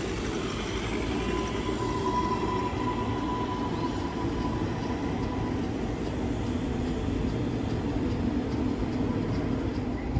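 Vivarail Class 230 multiple unit running in to the platform to terminate, a steady low rumble with a thin high tone that fades out about six seconds in.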